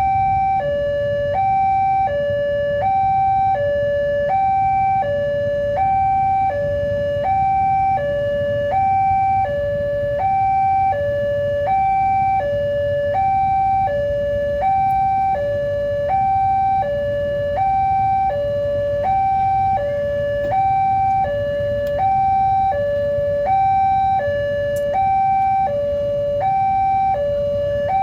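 Electronic level crossing warning alarm sounding a two-tone signal, a lower and a higher tone alternating about once a second. It keeps up steadily over a low rumble, warning that a train is approaching.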